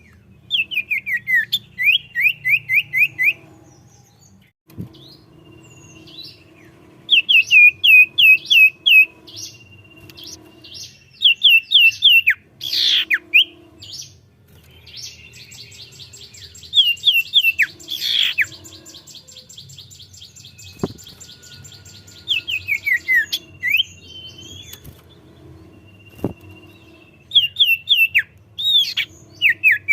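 Common iora (cipoh) in full song: phrases of rapid, sharply falling whistles repeated every few seconds, with a long fast buzzy trill near the middle.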